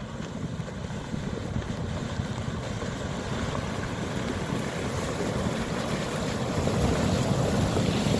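Flash floodwater rushing in a continuous noisy torrent that grows steadily louder toward the end.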